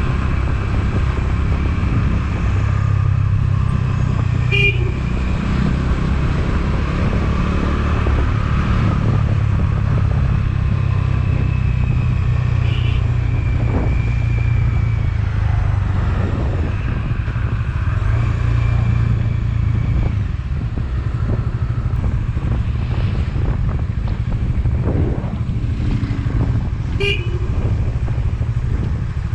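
Motorcycle riding along with its engine running and steady wind and road noise. A vehicle horn gives two short toots, about four seconds in and again near the end.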